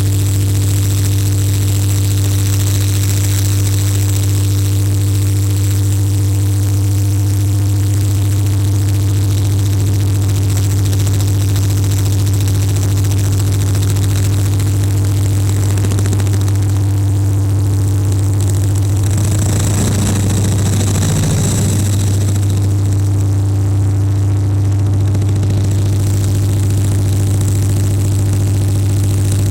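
2TE10U diesel locomotive's 10D100 two-stroke opposed-piston diesel engine running steadily under load on a rheostat (load bank) test: a constant deep drone with a steady high whine above it. The low sound wavers briefly about twenty seconds in.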